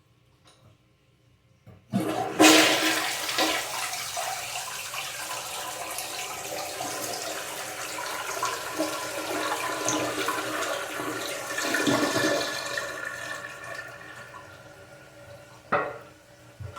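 American Standard Cadet toilet flushing: a few faint clicks, then about two seconds in the flush starts suddenly as a loud rush of water. It slowly tapers off as the tank refills with a hiss that carries a steady tone, and a sharp knock sounds near the end.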